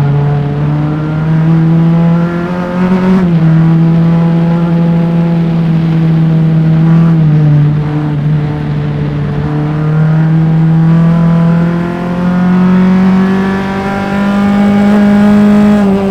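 Single-seater formula race car's engine at full throttle on track, close-miked: the revs climb, drop sharply at a gear change about three seconds in, then build again steadily to a peak before falling off as the driver lifts near the end.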